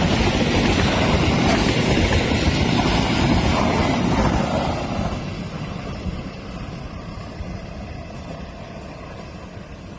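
A train passing, its rumble and wheel noise loud for the first four seconds or so and then fading steadily away.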